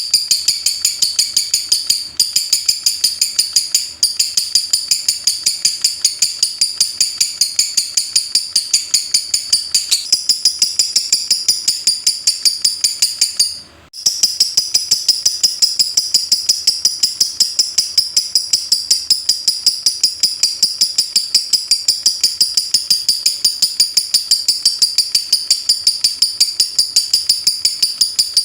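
Lovebird singing the 'ngetik' call: a long, unbroken run of rapid, evenly spaced high chirps like fast typing, broken off briefly about halfway through.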